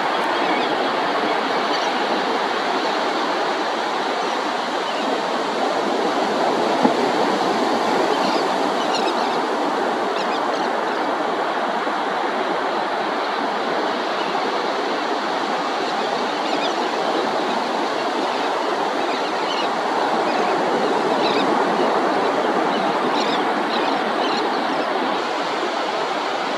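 Ocean surf breaking and washing onto a sandy beach, a steady rushing noise that swells slightly now and then, with faint high chirps here and there.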